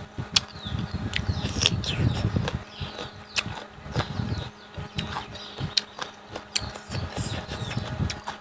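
Close-up chewing and mouth sounds of someone eating: irregular soft low thumps several times a second, with sharp wet smacks and clicks.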